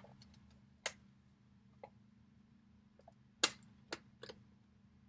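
A handful of sharp, separate clicks and taps from a vintage evening bag and a metal-mesh wallet being handled as the wallet is placed inside the bag. The loudest click comes about three and a half seconds in.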